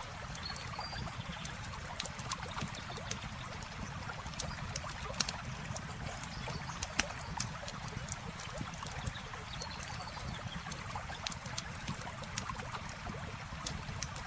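Campfire crackling with frequent sharp pops over the steady rush of flowing river water.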